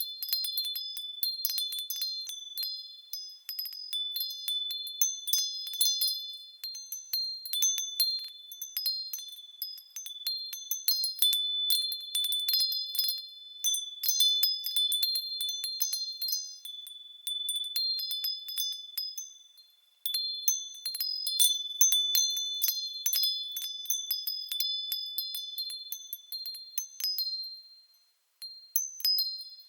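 Japanese fūrin wind chime ringing irregularly as the wind moves it, in clear, high, bell-like tinkles that overlap and fade. The ringing briefly dies away about twenty seconds in and again near the end, then starts up once more.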